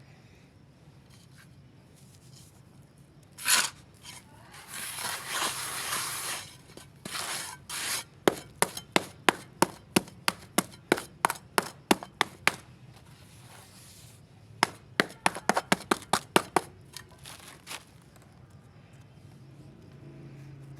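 Hard molded shapes and molds being handled: a scraping, rubbing rustle, then two runs of quick sharp taps or cracks, about three a second.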